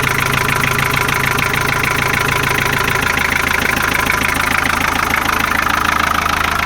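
Ford Sierra 2.3 D diesel engine idling steadily with a fine rapid clatter. About three seconds in, its low hum drops a little lower. The engine is worn but healthy, with crankcase pressure the owner judges not excessive.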